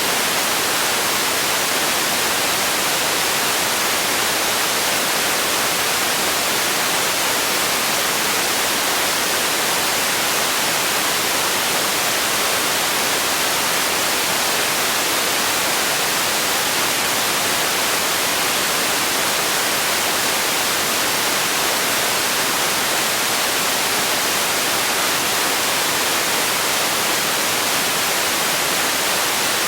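Steady relaxation noise for sleeping: an even hiss, strongest in the high frequencies and thin in the bass, that never changes.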